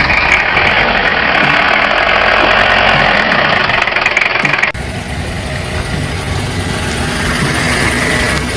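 Pickup truck engine idling steadily. About halfway through, the sound changes abruptly to a second recording of an engine running.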